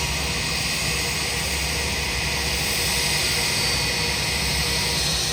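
Jet airliner engines running steadily: a hissing rush with a faint high whine.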